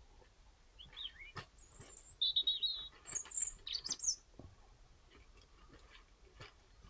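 A small bird singing a short burst of high, quick chirping phrases from about one to four seconds in, with a few faint knocks around it.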